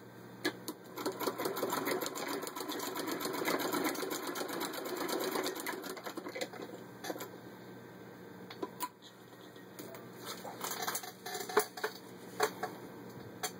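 Hand-cranked 1918 Singer 66 sewing machine stitching through six layers of denim: a run of fast, even needle-and-mechanism clicking with a whir from about a second in until about six seconds in. After that come a few separate clicks and knocks.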